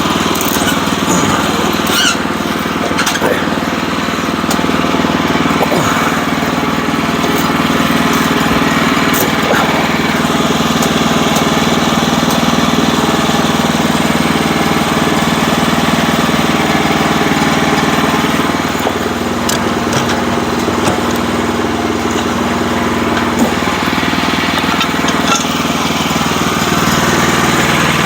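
Sawmill running, its small gas engine going steadily as the saw cuts a log. The engine note shifts about two-thirds of the way through.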